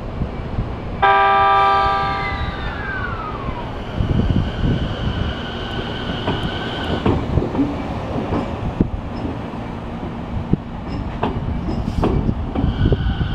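JR 209 series electric train sounding a short horn blast about a second in, its pitch sliding down as it dies away, then moving off with a steady high whine and a few clacks of wheels over rail joints.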